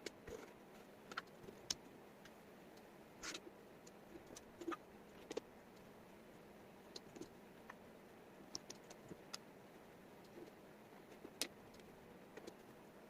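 Wooden jigsaw puzzle pieces clicking and tapping on a tabletop as they are handled and fitted: irregular sharp clicks, scattered a second or so apart, over a faint hiss.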